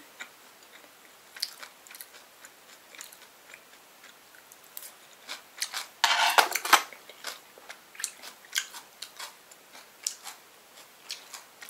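A person eating: chewing, with scattered light clicks of cutlery against a dish and one louder scrape about six seconds in.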